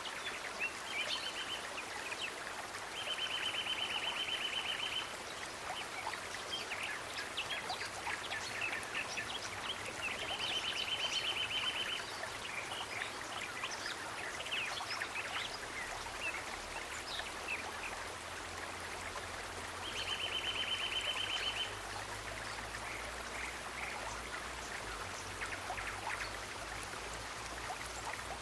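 Steady trickling of a stream, with an animal's rapid pulsed trill of about two seconds repeating four times and many short high chirps scattered over it.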